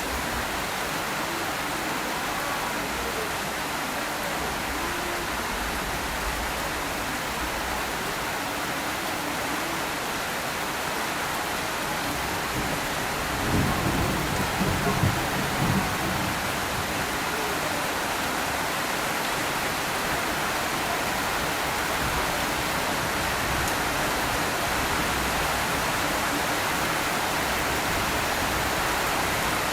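Steady rain falling, an even hiss throughout. About halfway through comes a brief low rumble of several swells lasting two or three seconds, likely a roll of thunder.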